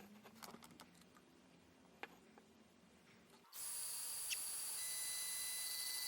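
Faint scattered clicks. About three and a half seconds in, a steady hiss with a high whine of several held tones starts abruptly: an xTool D1 Pro diode laser engraver running, its cooling fan and stepper motors going.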